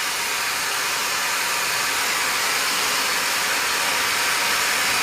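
Hand-held hair dryer running steadily, a constant rush of blown air that grows slightly louder.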